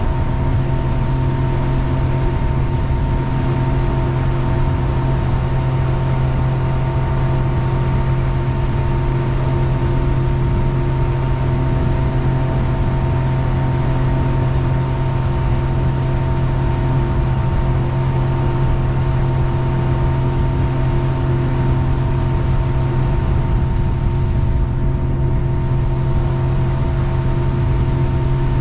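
Jet boat engine running steadily at constant speed: a low drone with several steady tones over an even rushing noise.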